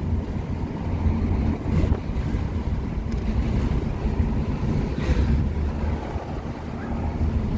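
Steady engine and road rumble inside the cabin of a Toyota Mark II X90 driving along, with no knock from the front suspension.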